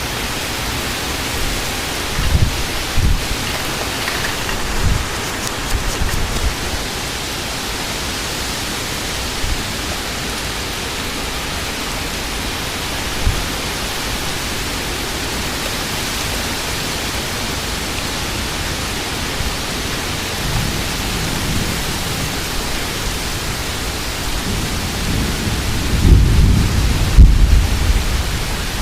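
Heavy thunderstorm rain pouring steadily. Short low rumbles come a few seconds in, and a louder, longer low rumble comes near the end.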